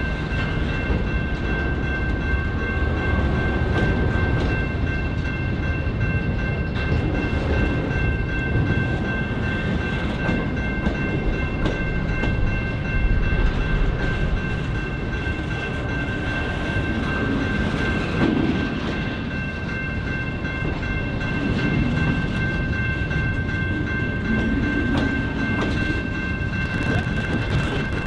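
Diesel freight locomotives running: a steady low rumble with a constant high-pitched whine over it.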